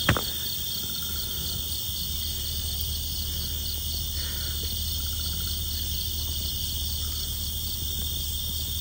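Night chorus of crickets and other insects: a steady high-pitched trill with a rapidly pulsing chirp above it. There is a sharp click just after the start.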